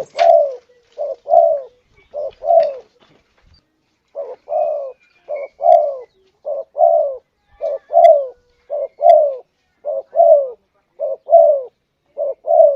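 Spotted dove (tekukur) cooing: a short coo followed by a longer, arching coo, repeated roughly once a second with one brief pause. It is a lure call used to draw in spotted doves.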